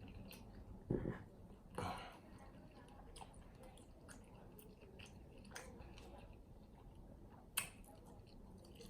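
Close-up chewing of sauced chicken wings, soft and wet, with three sharp smacks: about a second in, just before two seconds, and near the end.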